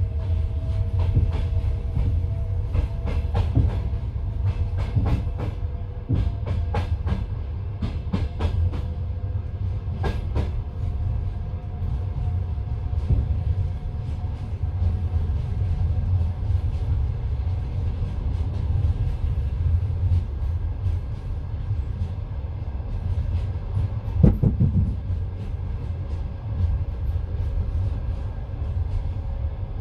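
Passenger train wheels running on the rails, heard from inside the carriage: a steady low rumble with the clickety-clack of wheels over rail joints, clustered in the first third, and one louder knock about 24 seconds in.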